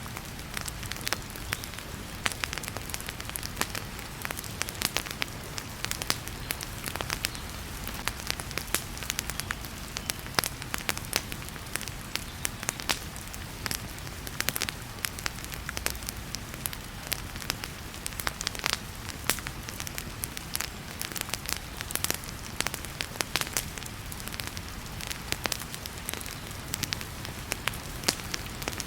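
Wood fire in a fireplace crackling with irregular sharp pops, over the steady hiss of heavy rain.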